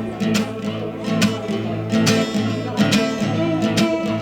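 Music led by a strummed acoustic guitar, strummed in a steady rhythm.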